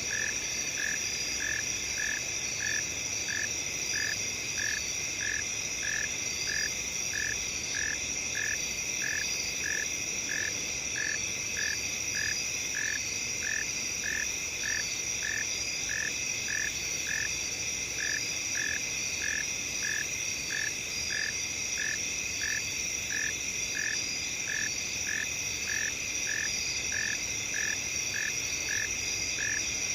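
Night field ambience of crickets and other insects: a steady high-pitched chorus of overlapping trills, with one lower call pulsing evenly about one and a half times a second.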